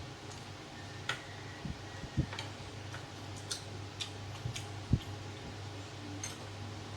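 Scattered light clicks of chopsticks against rice bowls and plates during a meal, with a few soft low thumps, the loudest about five seconds in, over a steady low hum.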